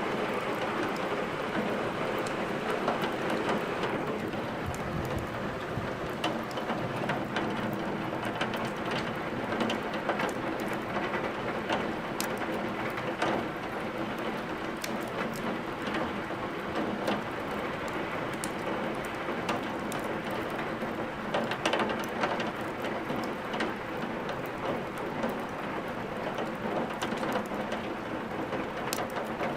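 Steady heavy rain with a wood fire crackling in a fireplace, its sharp pops and snaps scattered irregularly over the rain.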